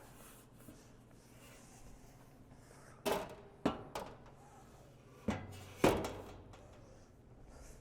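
Dishwasher parts knocking and clunking about four times, in two pairs, as a part is squeezed and lifted out of the dishwasher.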